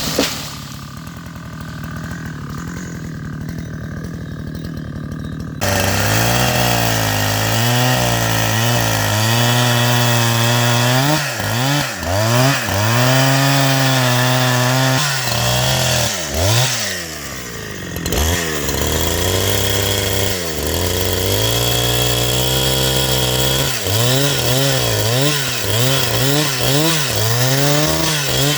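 Two-stroke chainsaw idling, then throttled up about five seconds in and cutting wood, its engine pitch rising and sagging again and again as the chain bites and frees.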